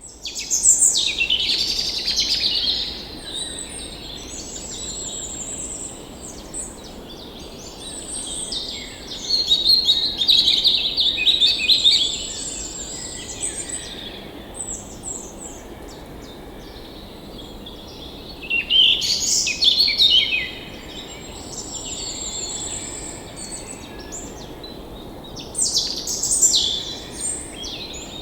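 Several songbirds singing and chirping, with busy, high trills and calls that come in bursts, loudest near the start, around a third of the way in, about two-thirds in, and near the end. Underneath, there is a steady low rushing noise, like distant flowing water.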